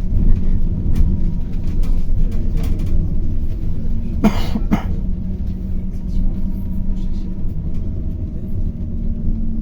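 City bus running, heard from inside the cabin: a steady engine hum over road rumble. About four seconds in, a person coughs twice briefly.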